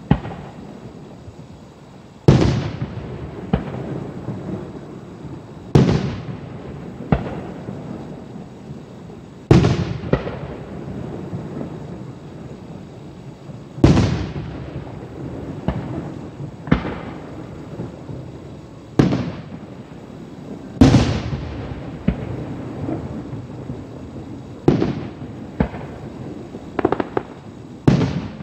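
Aerial firework shells bursting in a professional display: about a dozen booms a few seconds apart, some in quick pairs, each trailing off in a rolling echo.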